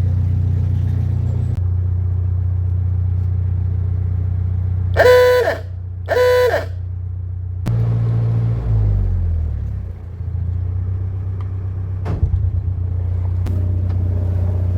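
Narrowboat's diesel engine running steadily, with two short toots of a boat horn about five and six seconds in. A couple of seconds later the engine note drops as the throttle is eased, then it settles back to a steady run.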